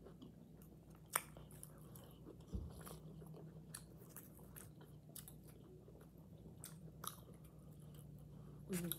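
A person chewing a mouthful of quesadilla, with soft wet mouth clicks and smacks scattered through and a sharper click about a second in. A steady low hum runs underneath, and a short voiced hum comes near the end.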